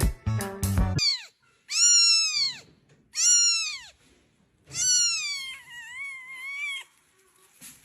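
A cat meowing four times, each call rising and falling in pitch, the last one long and wavering. Music plays for about the first second before the meows.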